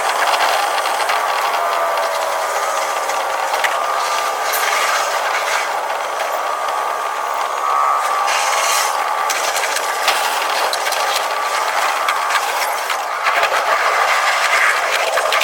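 Running noise of a Tokyu 5050 series electric train, sped up to double speed: steady wheel-on-rail noise with frequent clicks, and a whine that slowly shifts in pitch.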